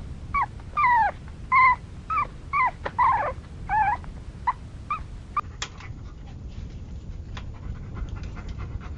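A dog whimpering and whining in short, falling cries, about a dozen of them over the first five seconds, then fading out to faint ticks over a low steady noise.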